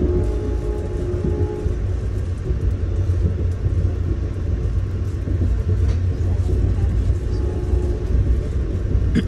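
Steady low rumble of a moving Amtrak passenger train heard from inside the coach: wheels running on the rails, with a faint hum near the start and again near the end.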